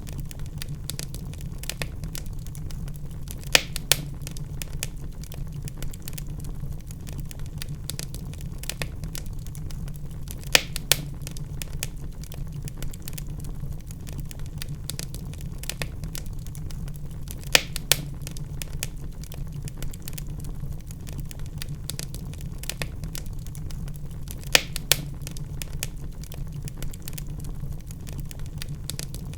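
Wood fire crackling in a fireplace: dense small crackles over a steady low rumble, with a pair of louder sharp pops about every seven seconds.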